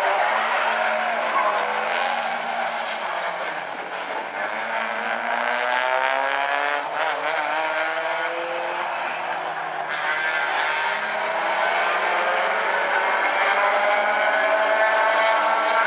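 A pack of small compact race cars running on a short oval track, several engines revving at once, their pitch climbing again and again as they accelerate.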